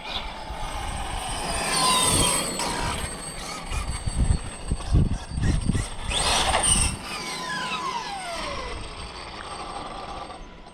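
Losi 5ive TE 3.0 1/5-scale electric truck's brushless motor whining hard on a top-speed run, its pitch climbing and then sliding down steeply after about six seconds as the truck passes, at around 52 mph. Low rumbles come in gusts about four to six seconds in.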